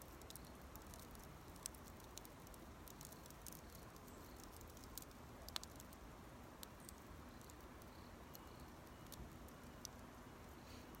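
Campfire burning low, with sparse faint crackles and pops scattered through; one sharper pop a little past halfway.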